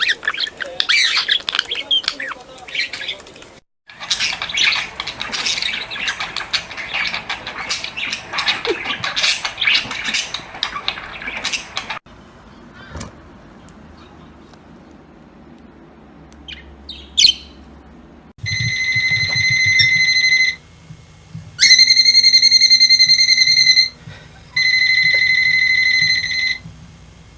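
Parrots chirping and squawking in rapid, busy calls, then a quieter stretch with a few short chirps. Near the end come three loud, steady high tones, each about two seconds long, like an electronic beep.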